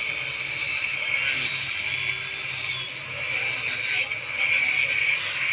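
Electric tile cutter running through tile, a steady high-pitched grinding that gets a little louder about four seconds in.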